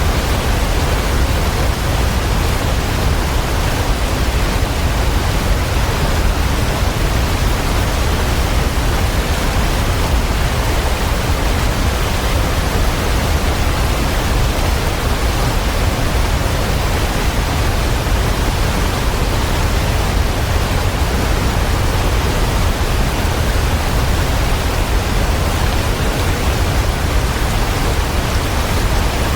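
Waterfall, a steady, unbroken rush of falling water, deep and full in the low end.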